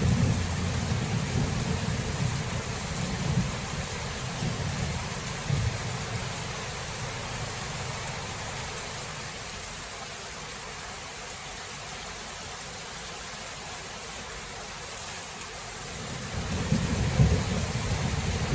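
Thunderstorm: steady heavy rain hissing, with deep rolling thunder that rumbles at first, fades away, and builds again near the end.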